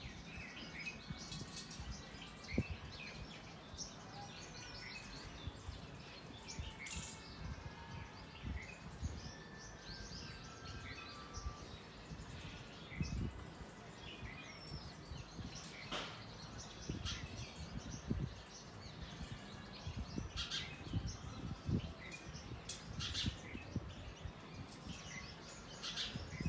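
Songbirds chirping and calling throughout, many short notes, with scattered brief clicks and low thumps.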